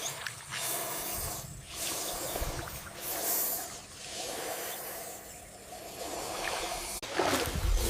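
A reptile hissing, a string of drawn-out breathy hisses that swell and fade about once a second.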